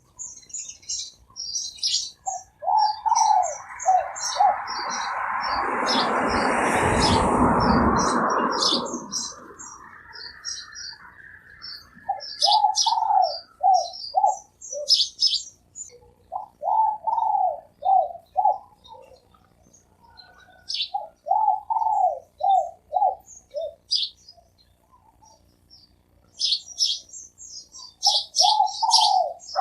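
Spotted doves cooing in repeated phrases of several low notes, with small birds chirping high above them. A loud rushing noise swells and fades between about two and nine seconds in.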